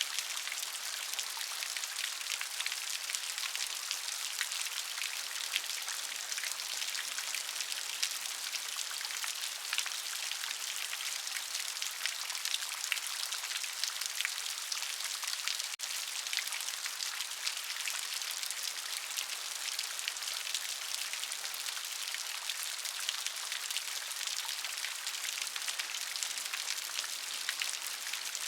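Steady rain falling: a dense, even hiss of countless raindrops pattering on a surface, with a momentary dip in level about halfway through.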